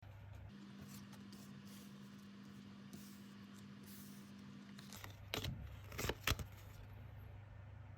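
Low steady electrical hum with faint hiss, then a few sharp clicks or knocks, like something being handled, about five to six seconds in.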